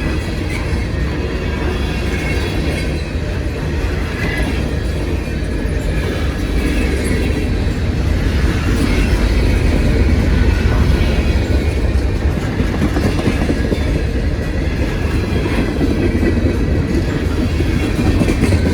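CSX freight train's cars rolling past on the rails, a steady rumble that swells a little about halfway through.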